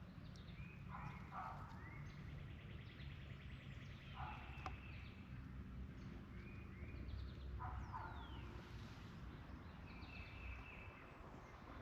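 Faint birdsong outdoors: a bird repeats a short call phrase about every three seconds, with other small chirps and whistles higher up, over a low steady rumble.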